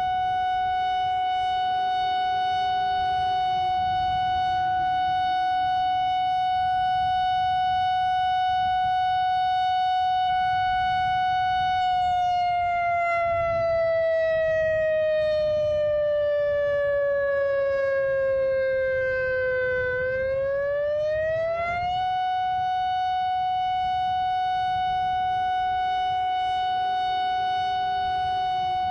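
Emergency warning siren sounding a steady high tone. About twelve seconds in, its pitch slides slowly down for several seconds, then rises quickly back and holds steady again, with a fainter, lower tone beneath.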